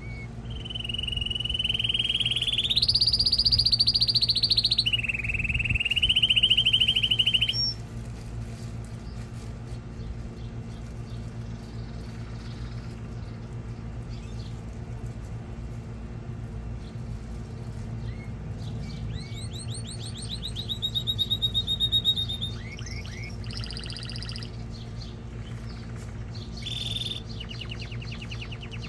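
Male canary singing in long rapid trills (rolls), one phrase jumping higher in pitch before dropping back. After a pause of about ten seconds it sings shorter trills and phrases again. A steady low hum runs underneath.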